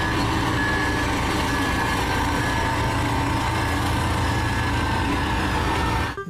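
Compactor's engine running steadily, with a faint high reversing beep sounding on and off over the rumble.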